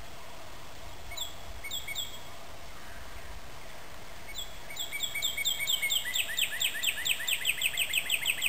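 A bird calls: two or three short, sharp falling notes, then from about halfway a run of falling notes that quickens into a rapid trill of about five or six notes a second.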